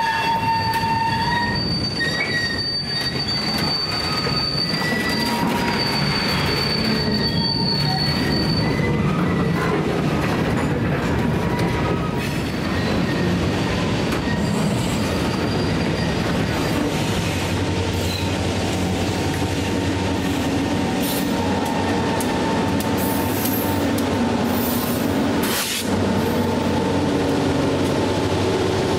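Steel wheel flanges of a slow-moving freight train squealing against the rail, high and steady, over the rumble of the cars rolling past. In the second half the low drone of the diesel locomotives comes up as they near.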